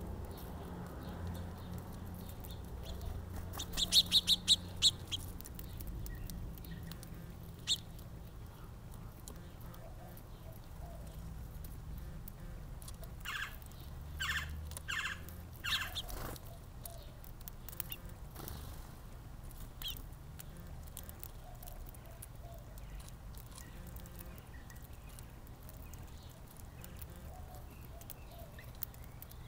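Birds chirping: a quick run of high chirps about four seconds in and a few more calls midway, over a steady low background rumble.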